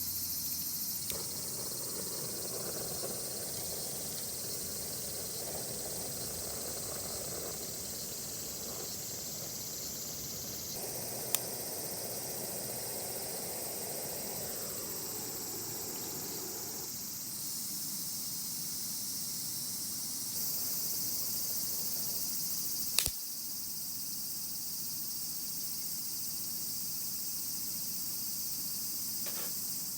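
Insects chirring steadily in a high-pitched night chorus. A softer rushing noise runs underneath for the first seventeen seconds or so, and two sharp clicks come about 11 and 23 seconds in.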